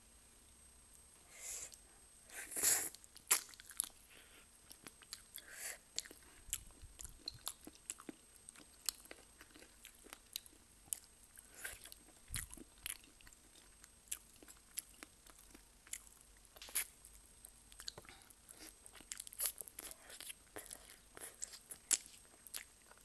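Close-up biting and chewing of Korean spicy chicken feet in a sticky chili sauce: irregular wet crunches, clicks and crackles, with the loudest bites about three seconds in and near the end.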